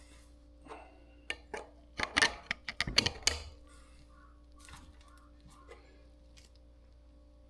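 A quick run of sharp metallic clicks and knocks as steel bicycle bottom bracket parts and tools are handled and fitted, thinning to a few faint ticks about halfway through.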